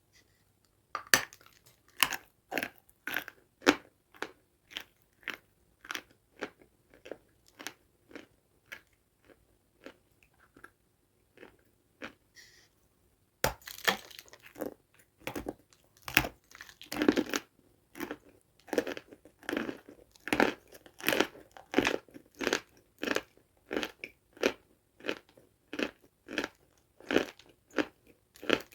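A person chewing dry, crunchy food close to the microphone, with regular crunches about twice a second. The crunching fades off, pauses briefly about halfway, then resumes with a fresh bite and louder, denser chewing.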